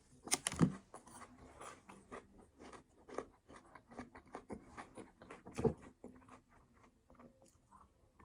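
Close-up chewing: faint, wet mouth clicks and smacks, with louder bites about half a second in and again near the middle, thinning out toward the end.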